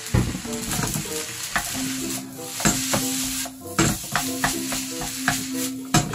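Wooden spatula stirring and scraping fried rice in a hot nonstick pan while it sizzles, with irregular sharp scrapes and knocks of the spatula against the pan.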